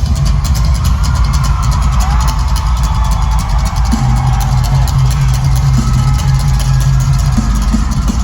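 Loud live rock band music played through a concert PA, with heavy drums and bass and no vocals.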